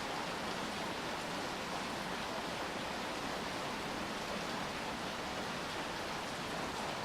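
Steady rain falling: an even hiss with no single drops or changes standing out.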